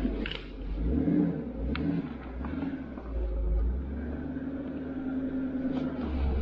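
Ford F450 recovery truck's engine running, heard from inside the cab, its note shifting a little as the truck slows. Two light clicks in the first two seconds.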